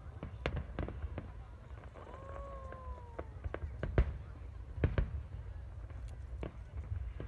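Aerial fireworks display: a run of sharp bangs and crackles, the loudest two about four and five seconds in, over a steady low rumble. A whistle falling in pitch sounds about two to three seconds in.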